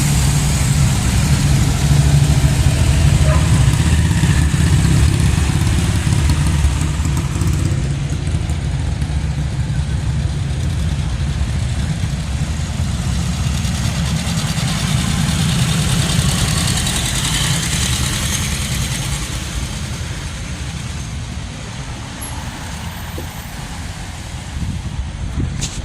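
Vintage motorcycle engines running steadily at a low pitch, then quieter from about 19 seconds in.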